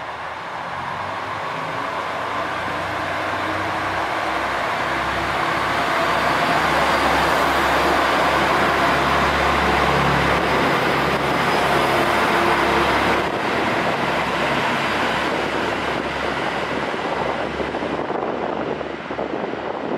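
Train running, its rumble building over the first several seconds and then holding steady.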